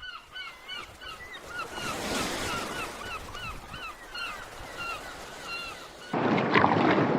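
Sea waves washing, with repeated short bird calls, a few each second, over them. About six seconds in it cuts to a louder steady rushing noise.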